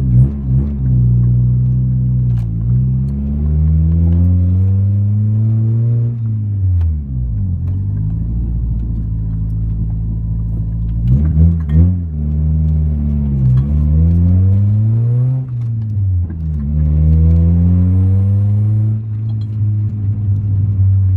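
Honda Accord four-cylinder engine through a full straight-piped stainless exhaust, heard from inside the cabin while driving. The engine pitch climbs under acceleration, drops at each gear change and climbs again, several times over.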